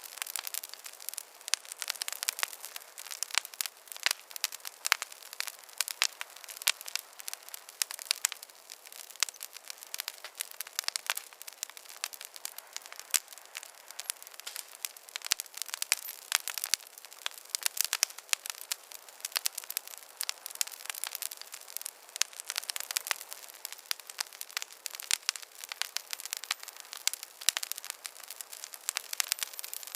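Wood fire in a fireplace crackling steadily, with a dense, irregular run of sharp pops and snaps and no low rumble.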